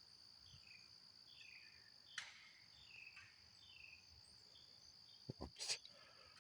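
Faint outdoor ambience: a steady high insect trill, with a run of short, falling bird chirps about every half second through the first few seconds. A couple of sharp clicks near the end, the loudest about two thirds of the way through.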